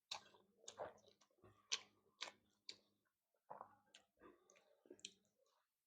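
Faint eating sounds: soft, irregular clicks and smacks of a person chewing a mouthful of fish curry and rice.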